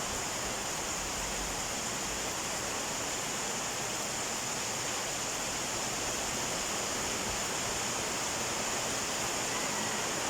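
Heavy torrential rain pouring down steadily, an even, unbroken hiss.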